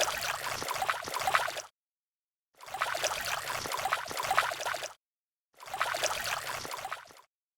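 Water sound effect, bubbling and trickling with a fine crackle, played in three bursts of about two seconds each with dead silence between them.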